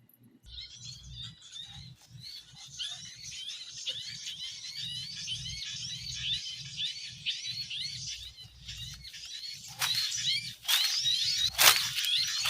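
Bird-call lure recording of a 'baret merah' bird's 'cit keres' call mixed with busy bird chatter, used to draw birds to lime sticks. Rapid high chirps repeat a few times a second from about half a second in, and from about ten seconds in loud calls sweep sharply down in pitch.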